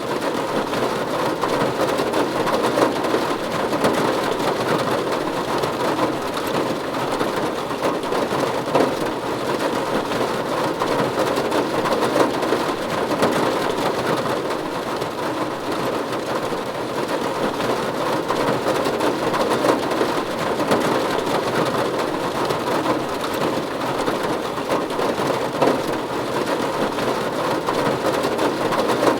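Steady rain drumming on a roof: a dense, even patter of drops that does not swell or let up.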